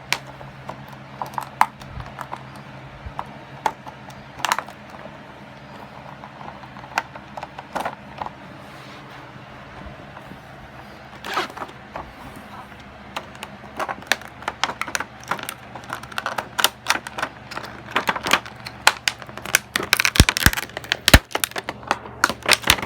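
Toy packaging being handled as small toy train figurines are worked loose: scattered clicks and crackles, sparse at first and growing busier and louder over the last several seconds.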